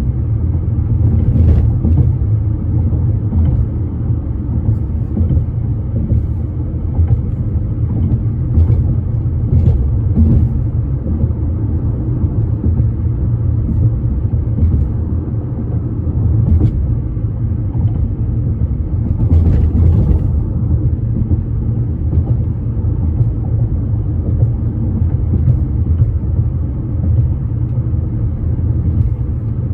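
Steady, loud low rumble of a bridge, with a few faint clicks scattered through it and a brief rush of brighter noise about nineteen seconds in.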